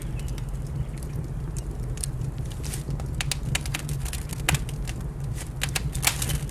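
Wood fire crackling and popping over a steady low rumble. The sharp pops are sparse at first and come thick and fast in the second half.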